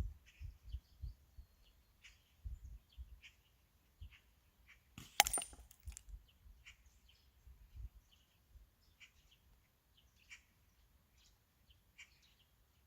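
A slingshot shot: one sharp crack about five seconds in, with a brief ringing tail. Faint scattered high chirps and low rumbles sit around it.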